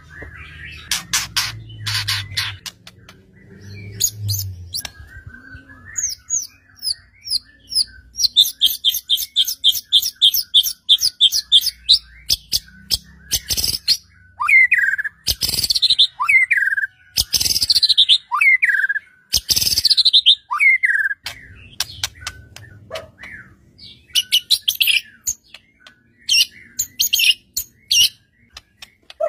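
White-rumped shama singing a long, varied song. It mixes sharp clicking notes with a fast trill of repeated high notes, then a run of downward-slurred whistles, and ends with more trilled bursts.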